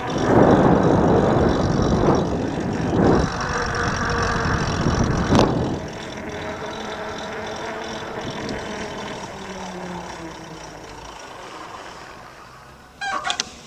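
Riding noise from a loaded electric bicycle: wind buffeting the microphone and tyres rolling on the path. It is loud for the first six seconds, with a sharp click about five seconds in, then quieter and fading. There are a few brief high chirps near the end.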